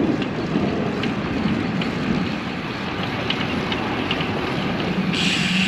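Steady rush of wind and road noise from riding a road bike. Near the end a steady low hum joins in.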